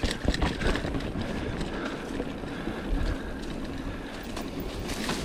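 Mountain bike ride on a forest trail: tyres rolling over dirt with the bike rattling and wind on the microphone, and a few sharp knocks near the start and again near the end.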